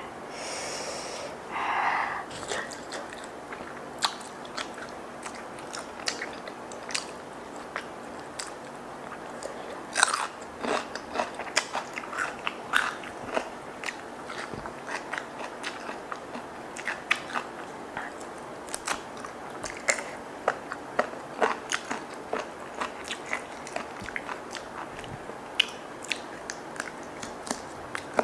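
Close-up eating sounds: a person biting and chewing fried chicken pieces, bones and soft cartilage included, and raw leafy greens, with many irregular sharp crunches and wet chewing.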